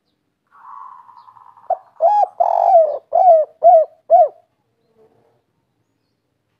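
Spotted dove cooing: one song phrase of about six coo notes, a short first note and then a quick run, over about two and a half seconds.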